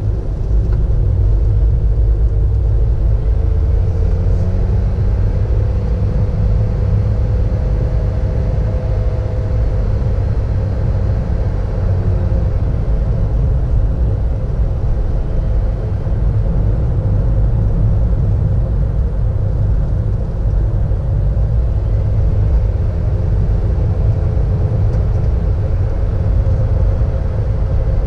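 Steady low rumble of a car's engine and tyre noise on the road, heard from inside the moving car, with a faint hum that drifts a little in pitch.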